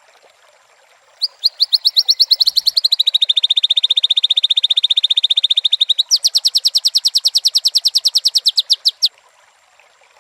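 White-rumped shama singing one long, rapid trill of evenly repeated high notes. It starts about a second in, drops a little in pitch, steps back up about six seconds in, and stops a second before the end.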